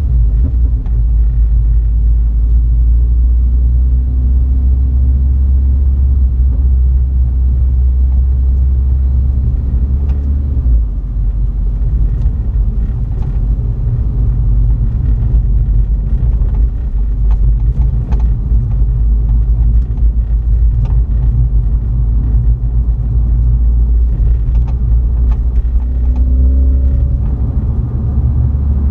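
BMW 330i's B48 turbocharged four-cylinder engine and exhaust running under steady driving, with a deep low rumble. The engine note shifts briefly about eleven seconds in and again near the end.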